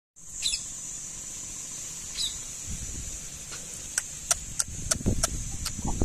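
Two short, falling bird chirps in the first couple of seconds over a steady high-pitched whine. Then a quick run of sharp clicks, with low rumble building near the end.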